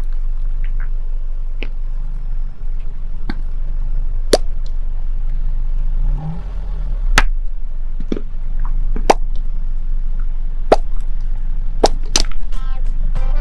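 A car's tyre rolling slowly over objects with a steady low rumble, with a series of sharp cracks and snaps as things break under the wheel.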